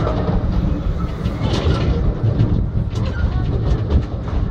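Miniature railway train carriage rolling along the track, a steady low rumble with a few sharp clicks from the wheels and running gear.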